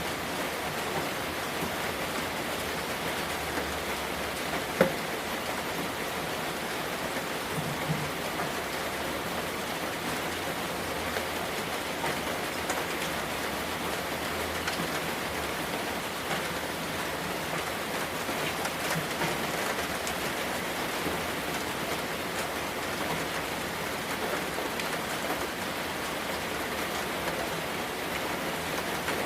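Steady rain falling, an even hiss with scattered individual drops; one louder drop or tap about five seconds in.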